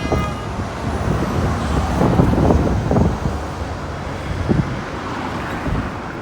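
Road traffic going by: a steady low rumble that swells as a vehicle passes close about two seconds in, then eases off.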